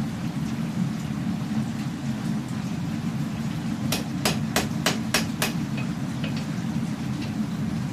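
Six quick hammer blows on steel at the anvil, about three a second, around the middle, over a steady low rumble.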